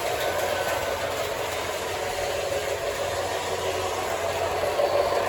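O gauge Santa Fe RS diesel model locomotive (LionChief Plus 2.0) running steadily along the track: a continuous motor and rail rumble with a low hum, growing a little louder near the end.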